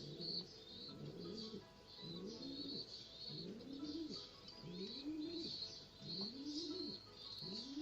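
Domestic pigeons cooing, low rising-and-falling calls repeated about once a second, with high chirping throughout.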